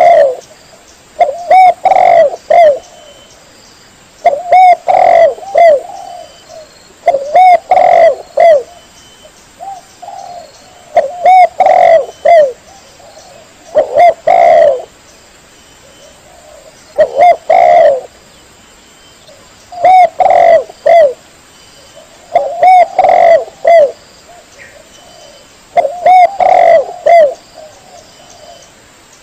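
Spotted dove (tekukur) cooing: short phrases of a few coos repeat about every three seconds, with brief pauses between.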